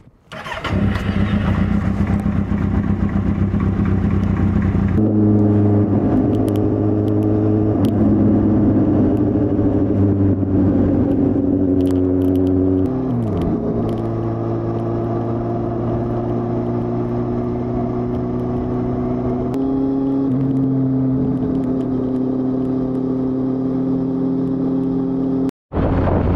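A 2015 Kawasaki Z800's inline-four engine running at a steady pace, heard on board while riding. The engine note steps up once, dips and climbs back about halfway through, and shifts again later. Near the end the sound cuts out for an instant and gives way to a rush of wind.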